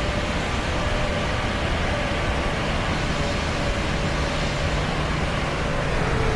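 Steady roar of a running vehicle, with a faint steady hum over it.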